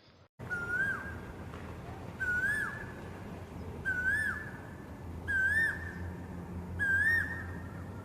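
Asian koel calling: six clear whistled notes about one and a half seconds apart, each swelling up and then dropping away, creeping slightly higher in pitch through the series, over a faint low hum.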